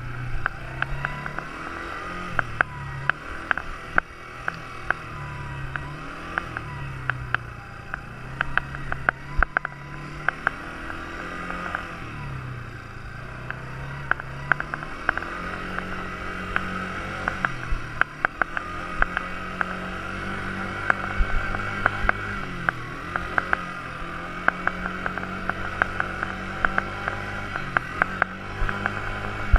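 Quad bike engine running, its pitch rising and falling again and again as the throttle is opened and eased off, with frequent sharp clicks throughout.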